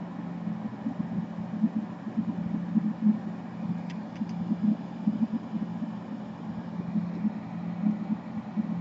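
Steady low hum of a small motor running, with an uneven flutter, and a few faint clicks about four seconds in.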